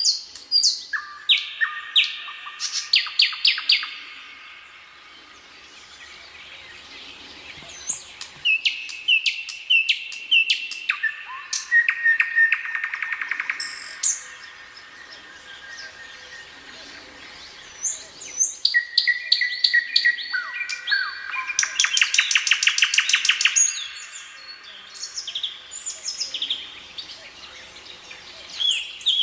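Nightingale singing: varied phrases of repeated notes, rapid trills and clear whistles, each phrase separated by a pause of a couple of seconds.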